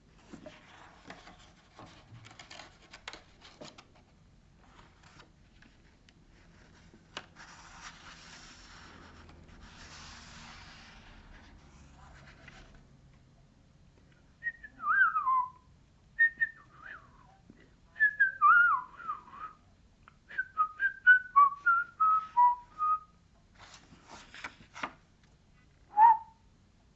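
Soft rustling, then a run of short whistled chirps in the second half, each a quick slide in pitch, imitating a small bird's tweets.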